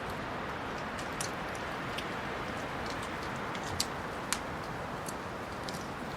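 Wood fire crackling in a fireplace: a steady soft hiss of burning logs with sparse sharp pops and crackles, two louder pops a little past the middle.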